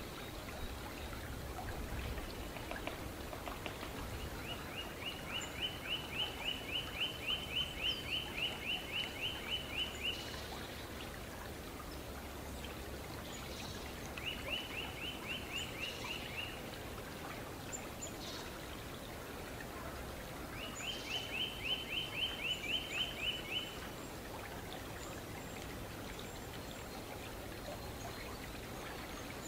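Eurasian nuthatch singing: three quick, even series of repeated whistled notes, the first and longest lasting about six seconds, over a steady background hiss.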